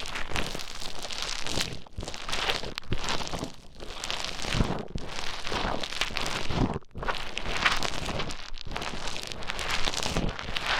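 Play Foam bead compound being squished and mixed right against the microphone: a dense, crackling squish that breaks off briefly about four times.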